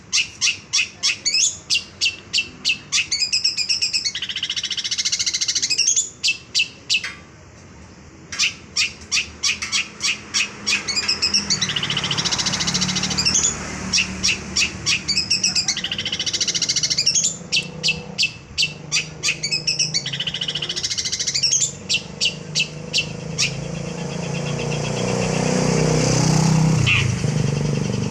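Long-tailed shrike (cendet) singing loudly: fast runs of sharp, high repeated notes, about three a second, broken by varied song phrases and a short pause. Near the end the notes stop and a rising hiss takes over.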